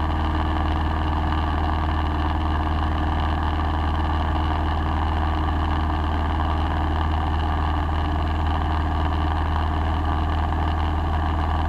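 Steady cabin drone of a light single-engine piston airplane in cruise: engine and propeller running at an unchanging pitch, with a strong low hum under a rushing hiss.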